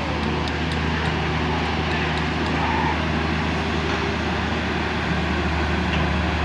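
Excavator's diesel engine running steadily at an even speed, a constant low drone with no revving.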